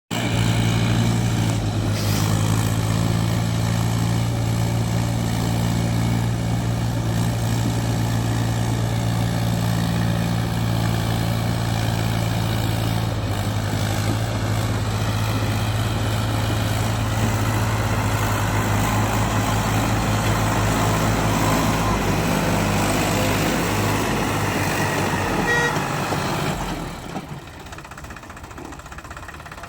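Mahindra Trakstar 540 tractor's diesel engine running steadily with a low hum, turning quieter and rougher near the end.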